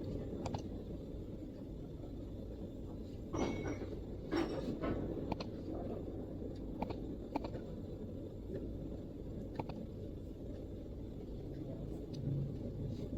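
Occasional single keystrokes on a MacBook keyboard, irregular and a second or more apart, with a small cluster about three to five seconds in. A steady low background rumble runs under them.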